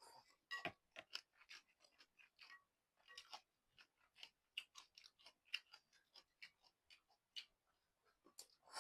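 Close-up chewing and wet mouth clicks while eating noodle soup: a quiet, irregular run of short smacks and clicks, several a second.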